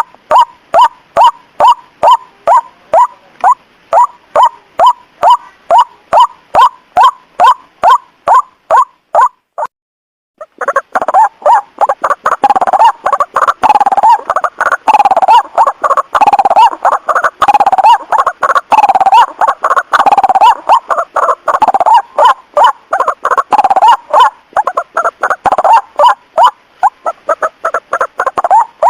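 White-breasted waterhen calls played as a lure: a steady run of repeated 'kruak' notes, about two or three a second. They cut out briefly about ten seconds in, then return as denser, louder overlapping calls that thin out again near the end.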